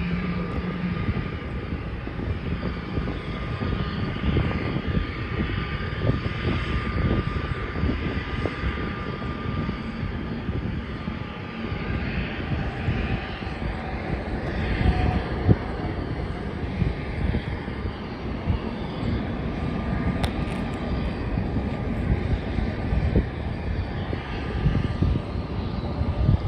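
Jet engines of an Airbus A330 airliner, a steady rumbling noise with a thin high whine held throughout.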